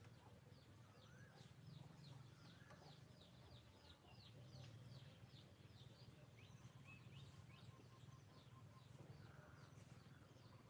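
Faint birdsong: a long run of quick, high descending chirps, about three a second, with a few lower rising calls, over a steady low rumble.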